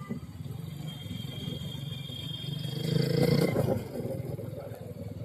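Motorcycle engine running, getting louder for a moment about three seconds in before settling back.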